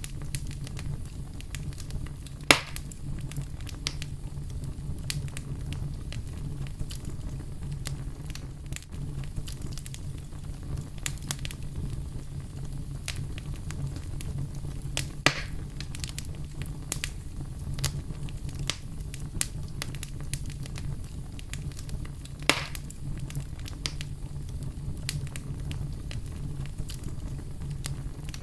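Wood fire crackling, with a steady low rumble under frequent small snaps and three louder pops: one about two and a half seconds in, one about midway, and one about three-quarters of the way through.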